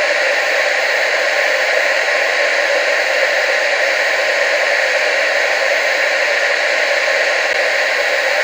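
Steady analogue TV static hiss, an even unbroken noise with most of its energy in the middle and upper range and little bass.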